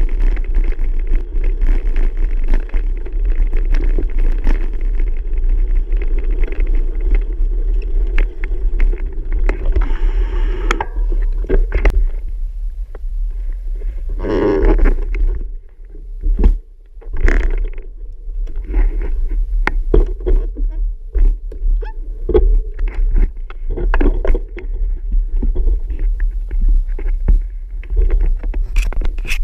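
Bicycle riding with wind rumbling on the microphone and frequent small knocks and rattles. The sound drops away briefly a little past the middle, then picks up again.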